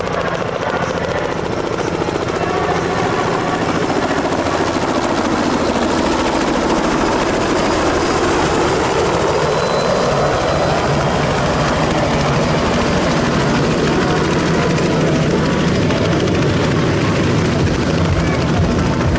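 Helicopter running close by, its rotor and turbine giving a loud, steady drone and hiss that swells slightly a few seconds in.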